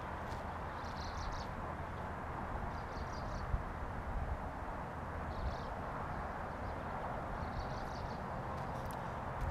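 Steady outdoor background noise with a low rumble, and a small bird giving a short high chirp about every two seconds.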